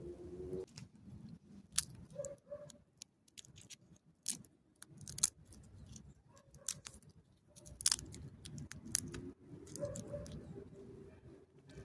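Wood campfire crackling with scattered sharp pops, over a low rumble of distant road traffic.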